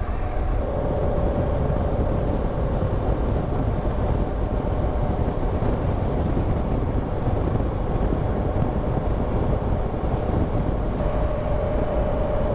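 BMW R1200GSA boxer-twin engine running at a steady road speed under heavy wind and road rush. A faint steady whine comes in shortly after the start and again near the end.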